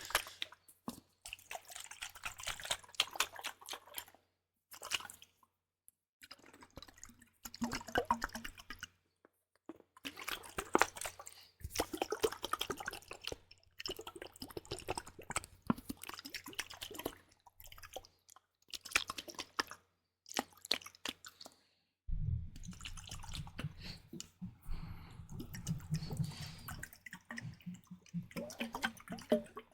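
Wet, crackly liquid sounds worked close to an ASMR microphone. They come in bursts of one to three seconds with short silences between. From about 22 seconds in, a low hum runs underneath.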